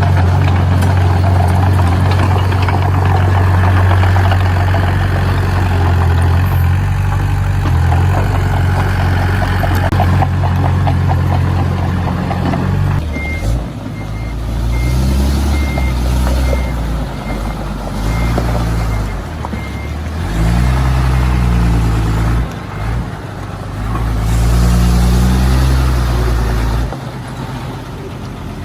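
Diesel engine of heavy construction machinery, running steadily at first, then revving up and down in repeated surges from about halfway through. A reversing alarm beeps steadily alongside the surges.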